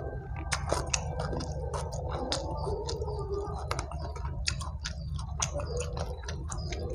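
Close-miked chewing of fried chicken and rice in sambal: wet mouth clicks and lip smacks several times a second, with fingers picking at the chicken. A steady low hum runs underneath.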